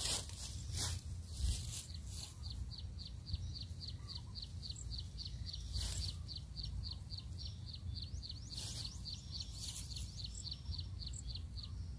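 A bird repeating a short, high chirp about four times a second, starting about two seconds in and stopping near the end, over a steady low rumble with a few brief noisy bursts.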